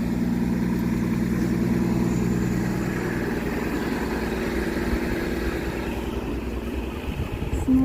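A motor vehicle's engine running with a steady low hum, fading out about six seconds in.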